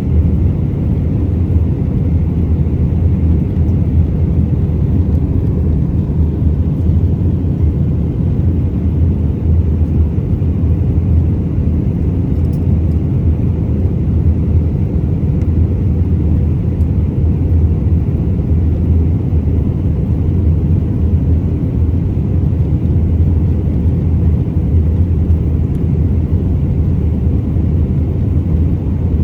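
Steady low rumble inside the cabin of an Airbus A319-131, the engine and airflow noise of the airliner under way, unchanging throughout.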